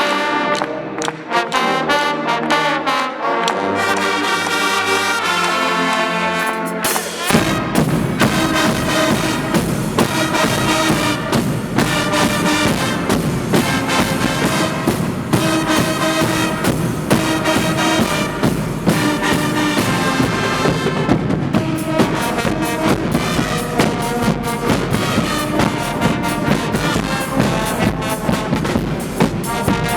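Guggenmusik carnival band playing: brass horns carry the tune alone at first, then about seven seconds in the drums and percussion come in and the full band plays on together.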